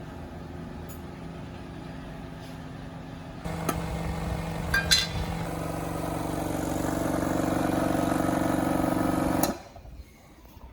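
A small engine running steadily. It steps up and gets louder a few seconds in, with a few sharp clicks, then cuts off abruptly near the end.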